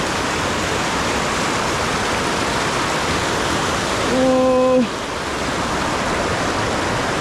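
River water running over falls, a steady rushing noise with no change in level.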